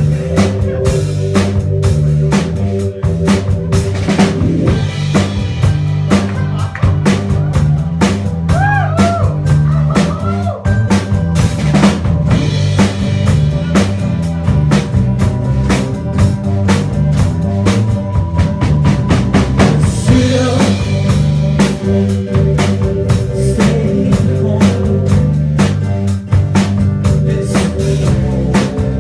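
Live rock band playing an instrumental passage: a drum kit with steady kick and snare hits drives it, under a bass line and sustained keyboard or guitar notes. A few bending, sliding notes come in around nine seconds in.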